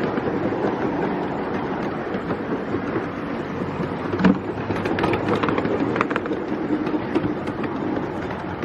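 Ride-on 5-inch gauge miniature railway train running along its track: a steady rumble of wheels on rail, with a few sharp clicks partway through.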